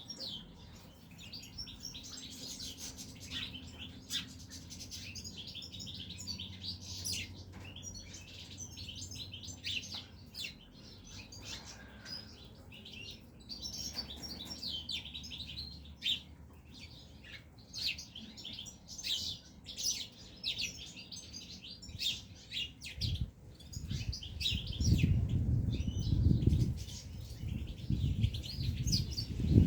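Caged European goldfinches chirping and twittering in many short, quick calls. About three-quarters of the way in, a few seconds of low thudding knocks rise above them.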